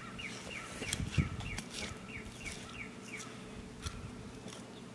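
A songbird calling in a quick series of short falling chirps, about three a second, easing off about three seconds in. A low thump about a second in and a faint click near the end.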